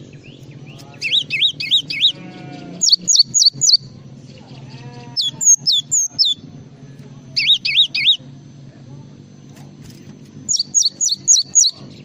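Gelatik songbird singing: five bursts of four or five quick, sharp, high chirps, a couple of seconds apart. A steady low hum runs underneath.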